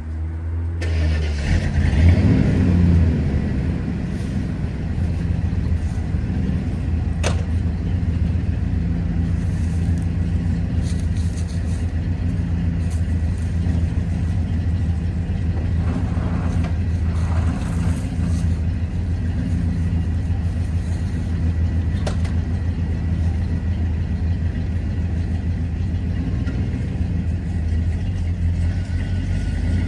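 Pickup truck engine coming to life and running, loudest for the first few seconds, then settling into a steady low running note.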